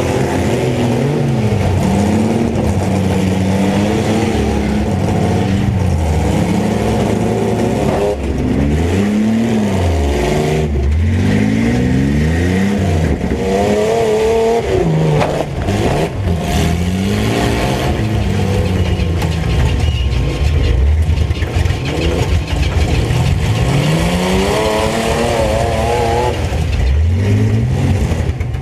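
Several mini truck engines revving up and down over one another, their pitches rising and falling, with a few sharp bangs in the middle of the run.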